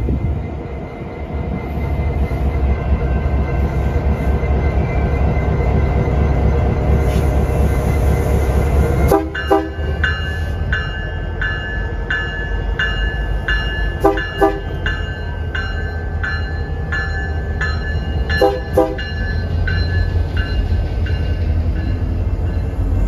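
A freight train rumbling heavily for the first nine seconds. Then a railroad grade-crossing bell starts ringing, about two strokes a second, and a horn gives short toots in pairs.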